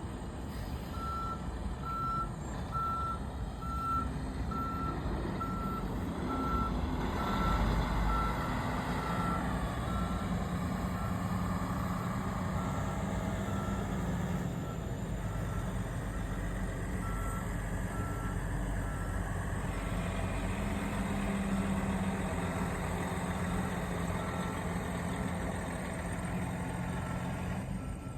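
A truck's reversing alarm beeping steadily, about two single-pitched beeps a second. A heavy engine rumbles steadily underneath.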